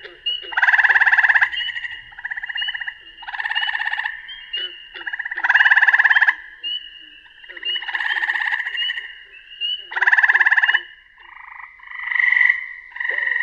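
A recording of a frog call played through a small speaker: pulsed trills about a second long, repeated roughly every two and a half seconds, with short high peeps in between. Near the end the pattern changes to shorter, softer notes.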